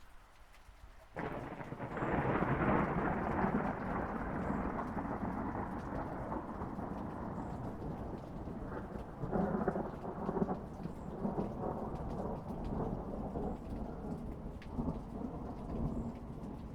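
Thunder cracks suddenly about a second in and rumbles on, swelling again in the middle and near the end, over steady rain.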